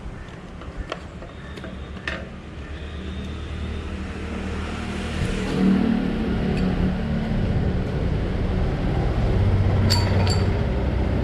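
A few light clicks and taps of parts being handled. Then, from about five seconds in, a steady low engine hum of a motor vehicle grows louder and keeps running, with a couple of faint clinks near the end.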